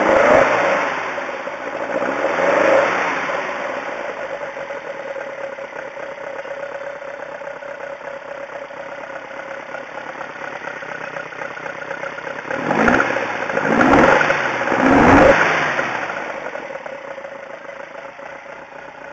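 Toyota 2T four-cylinder engine on its first run-up: a couple of revs at first, then a steady idle, then three quick throttle blips in a row near the end before it settles back to idle.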